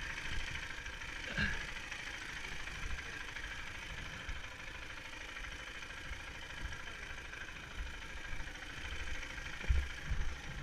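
KTM 690 Enduro R's single-cylinder engine running steadily as the bike rides the dirt trail, with a few low thumps near the end.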